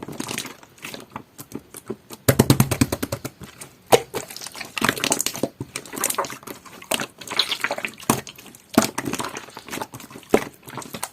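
Clear jelly-textured slime squished and pressed by hand, giving sticky pops and clicks, with a quick run of crackling pops a couple of seconds in.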